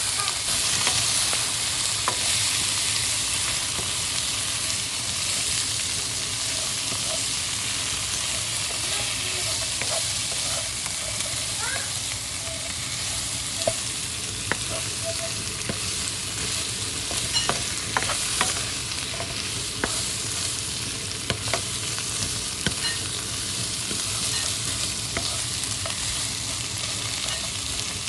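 Food sizzling steadily in a hot pan while it is stirred and tossed, with scattered clicks and scrapes of a cooking utensil against the pan.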